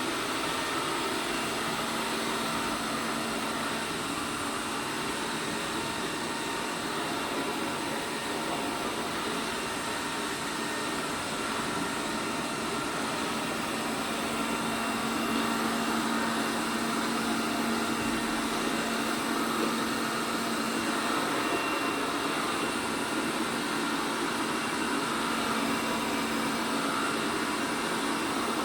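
ELARI SmartBot Lite SBT-002A robot vacuum running, a steady whirring of its suction fan and brushes with a constant low hum, getting a little louder about halfway through.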